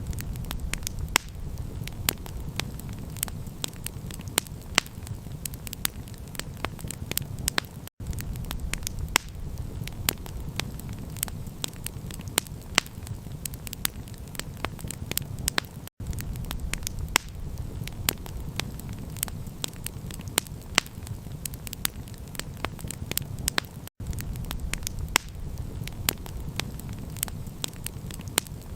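Wood campfire crackling, with sharp irregular pops and snaps over a steady low rumble. The sound drops out for an instant about every eight seconds.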